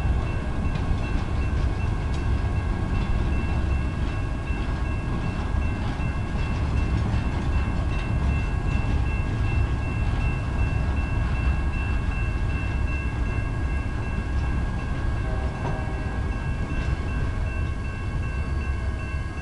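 Work train's flatcars rolling past on the rails, a steady low rumble with a thin steady high-pitched whine over it.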